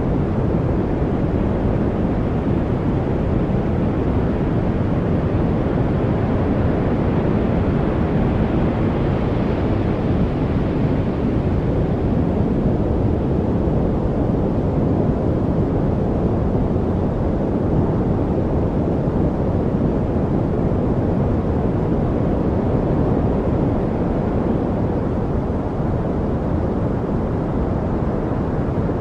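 Steady, deep noise track played for focus, a dark rumbling hiss with most of its weight in the low range. It grows slightly brighter for a few seconds about a third of the way in, then settles again.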